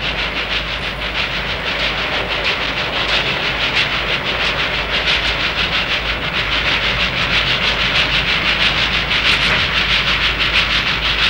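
Sound effect of a moving train: a steady rushing noise with a fast, even clatter of several beats a second.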